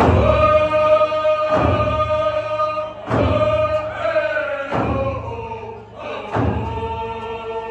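Group of voices singing a song of long held notes in unison, with a drum struck about once every one and a half seconds.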